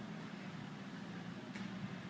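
Dodge Charger engine idling through its dual exhaust, a steady low hum. A faint click sounds about a second and a half in.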